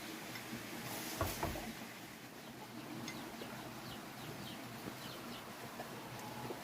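Outdoor ambience with a steady hiss and a single dull knock about a second in, followed by a run of short, high, falling bird chirps.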